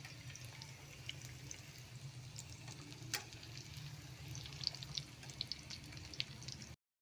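Rain falling, with scattered drops ticking and dripping over a faint steady low hum; it cuts off suddenly near the end.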